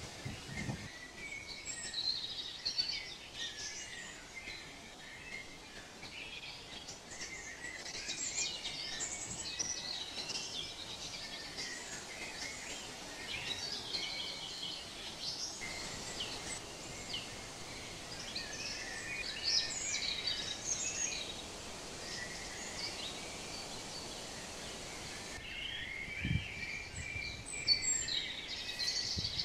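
Many small songbirds chirping and singing over a steady outdoor hiss.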